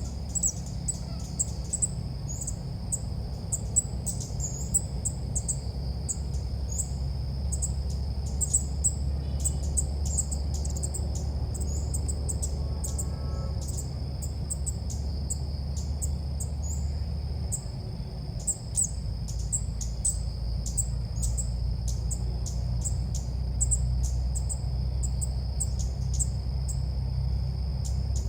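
Ốc mít birds calling in fast, repeated short high chirps, a lure-call recording used to draw the birds in for trapping. A steady high whine and a low rumble run underneath.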